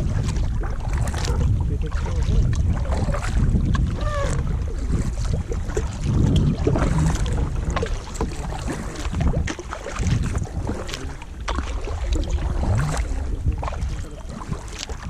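Wind buffeting the microphone with a heavy low rumble, mixed with irregular water splashes and knocks from a kayak on the water.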